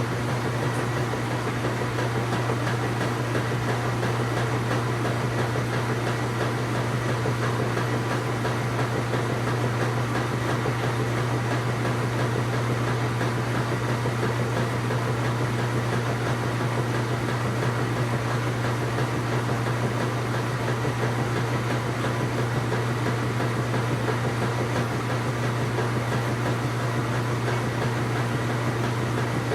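Washing machine running, a steady low motor hum with an even mechanical noise over it that holds constant without change.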